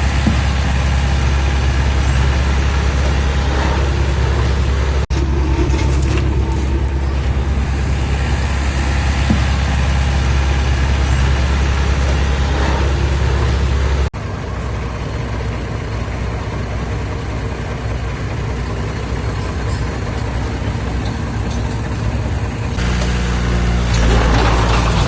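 Heavy diesel earthmoving engine running steadily with a deep drone. The sound breaks off abruptly about 5 seconds in and again about 14 seconds in, and is quieter after the second break. It changes again near the end.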